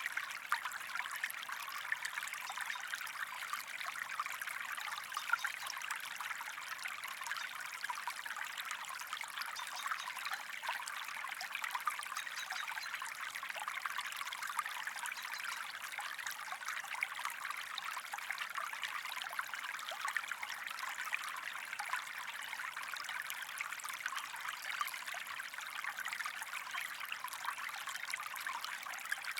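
Shallow stream of water trickling and babbling steadily, a dense, even patter of small splashes with no pauses.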